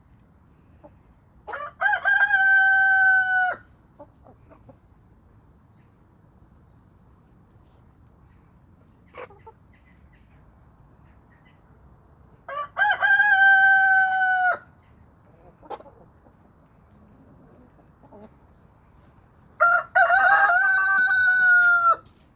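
A rooster crowing three times, each crow about two seconds long, spaced several seconds apart, with a few faint clucks in between.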